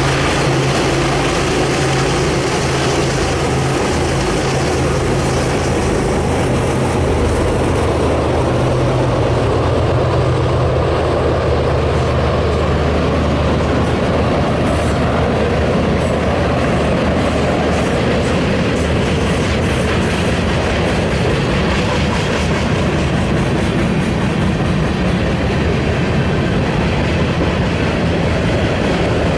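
BNSF manifest freight train passing. The diesel locomotives' engines run steadily for about the first twelve seconds, then the freight cars roll by on the rails as a steady, loud wash of noise.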